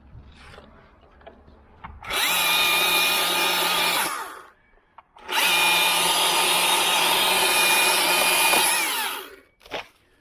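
Chainsaw cutting through a small oak limb at full throttle in two bursts, about two and four seconds long, with a short stop between; the pitch sags as the second burst ends. A couple of short knocks follow near the end.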